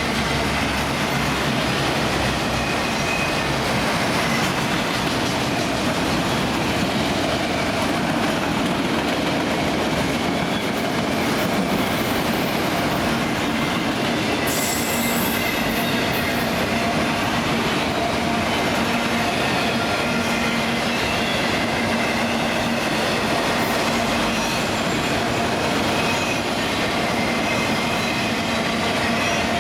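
Empty autorack freight cars rolling steadily past, wheels clattering on the rails with a faint steady squeal. A brief hiss comes about halfway through.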